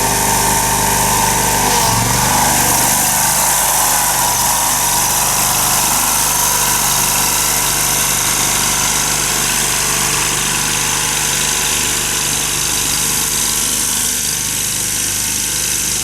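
Lawn mower engine running steadily while cutting tall grass.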